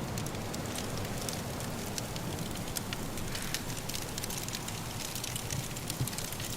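Firewood crackling in a fireplace: many small irregular pops and snaps over a steady low rush of wind.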